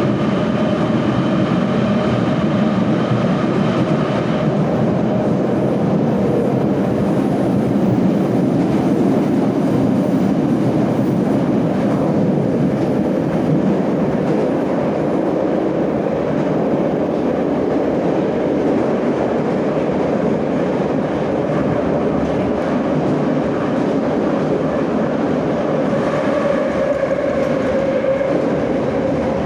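Moscow Metro 'Nomernoy' (81-717/714 type) train running through the tunnel between stations, heard from inside the car: a steady loud rumble of wheels and running gear. A whine of higher tones fades out about four seconds in and comes back near the end.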